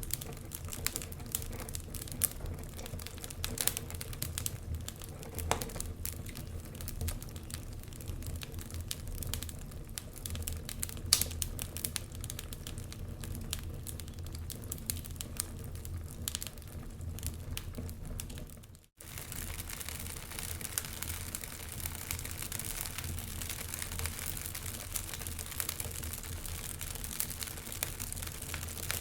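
Wood fire burning in a fireplace, crackling with dense, irregular small pops and snaps over a low rumble. About two-thirds of the way through the sound cuts out for an instant and resumes, like a splice in a looped recording.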